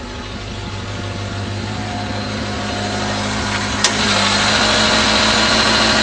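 1983 Toyota Tercel wagon's four-cylinder engine idling steadily shortly after a cold start, growing gradually louder. There is a sharp click about four seconds in, after which a steady high hiss is stronger.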